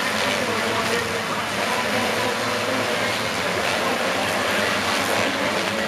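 Motocross bike engines running together, a steady dense engine noise with faint wavering pitches.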